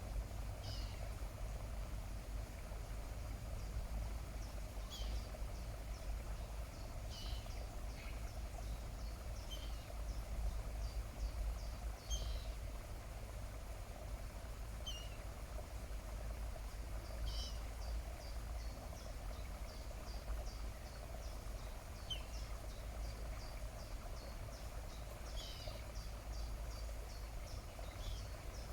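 Small birds calling: short, high, falling chirps every couple of seconds and several runs of quick high ticks, over a steady low rumble.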